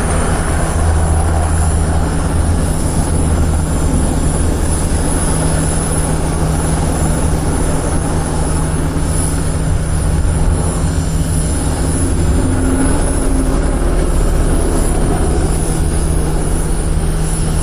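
NH90 twin-turbine military helicopter in flight, its turbines and rotors making a steady, loud drone with a deep hum.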